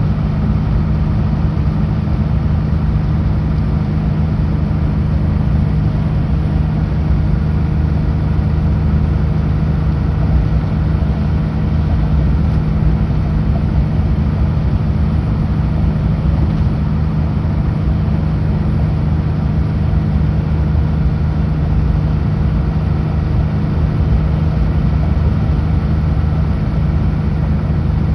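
Kenworth W900L semi truck's diesel engine running steadily at a constant speed on the highway, with a deep unchanging drone and road noise.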